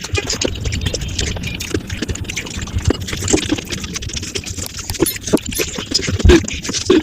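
Mukbang eating sounds played at five times speed: a rapid, dense stream of wet chewing, smacking and slurping clicks.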